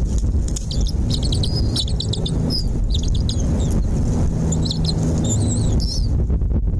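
Small birds giving many short, high chirps, over a steady low rumble.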